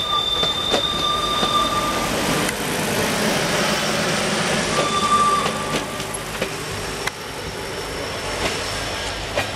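Railway passenger coaches rolling past and away, a steady rumble with occasional clunks of the wheels. A high squeal from the wheels sounds twice, in the first two seconds and again about five seconds in. The rumble drops a little from about seven seconds in as the train draws away.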